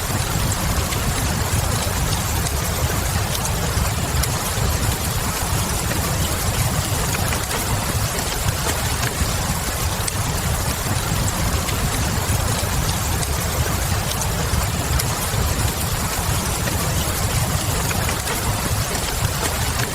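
Steady rain and a crackling wood fire in a continuous ambience mix: an even hiss of rain over a deep, constant low rumble, with occasional faint crackles.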